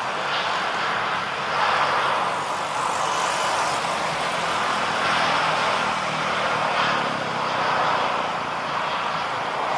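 Jet airliner engines running with a steady rushing roar that swells and eases slightly every second or two.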